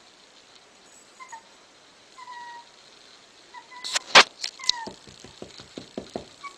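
A young pet's thin, high-pitched cries, about five short calls, some held briefly and some falling in pitch. A few sharp clicks come about four seconds in, followed by a quick run of soft taps.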